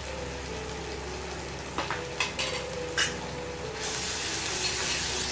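Ginger-garlic paste sizzling in hot oil in a steel kadai, with a spoon clicking and scraping against the pan as it is stirred. The sizzle turns louder about four seconds in.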